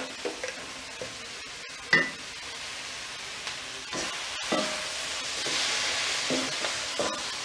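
Oyster mushrooms sizzling in a metal kadai, with one sharp knock about two seconds in. From about four seconds in a wooden spatula stirs and turns them, the sizzle growing louder with knocks of the spatula against the pan.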